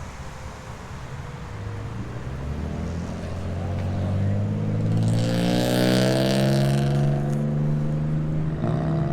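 A car's engine and exhaust drawing near, its note growing steadily louder and peaking about six seconds in, with a brief rise in pitch as it goes by.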